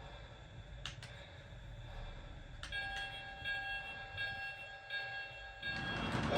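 Two sharp clicks, then a Lionel O gauge locomotive's electronic bell ringing over and over, about twice a second. Near the end the rushing sound of the model train running on its track swells up.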